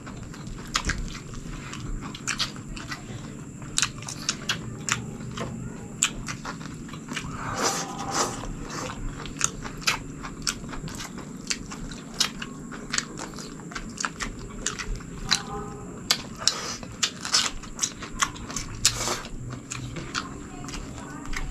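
Close-miked chewing and lip-smacking of two people eating boiled chicken and rice with their hands: a steady run of short, wet clicks and smacks.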